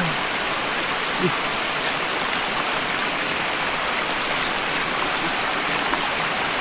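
Water rushing steadily, a continuous even hiss of flowing current.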